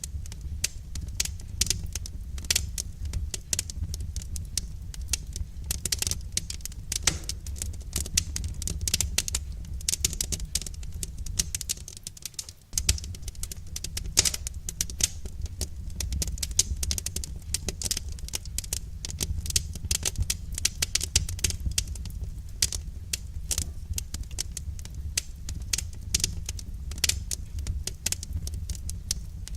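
Wood fire crackling: dense, irregular pops and snaps of burning firewood over a steady low rumble of the flames, which briefly drops away about twelve seconds in.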